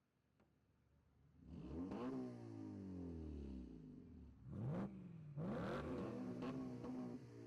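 Car engine being revved, starting after about a second of near silence. Its pitch climbs and falls several times, with two quick sharp blips past the middle.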